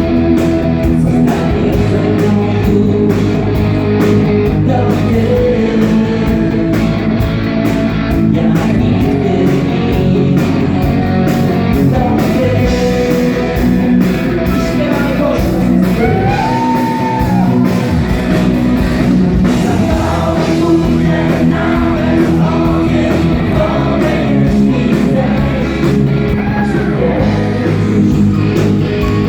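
Live rock band playing loud and steady, with guitars, bass and drums. A lead melody line glides and bends in pitch around the middle of the passage and again near the end.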